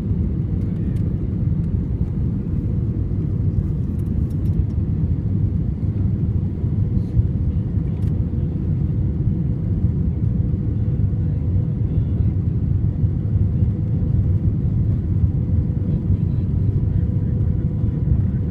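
Steady cabin noise inside a jet airliner: a loud, even rumble of engines and airflow, with a faint steady hum on top.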